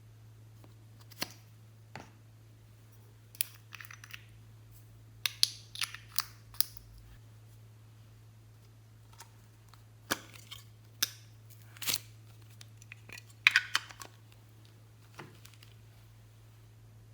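Glossy slime being squeezed and worked by hand, giving scattered sharp clicks and short crackling pops, about a dozen, some in quick clusters, with quiet gaps between. A steady low hum runs underneath.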